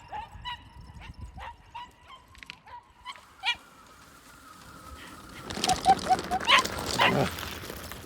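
A dog whining in a quick run of short, high yips, about three a second, that die away after about three and a half seconds. A burst of rustling, scuffling noise with a few faint squeaks follows near the end.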